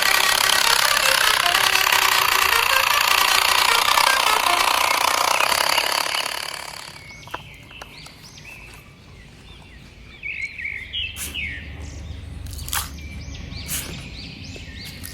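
A loud, dense noise that fades out about six seconds in. Then birds chirping against a quiet background, with a few sharp clicks.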